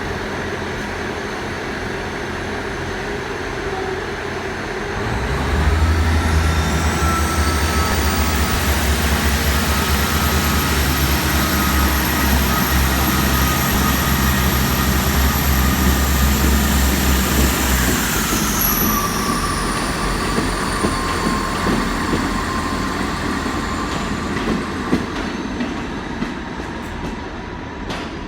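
South Western Railway diesel multiple unit pulling out. About five seconds in its engines open up into a deep drone with a climbing whine; the whine steps down in pitch about eighteen seconds in, and the sound then slowly fades as the train draws away.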